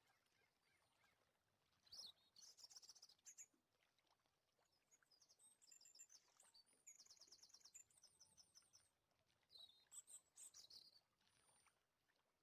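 Faint birds chirping, in three short spells of quick high trills.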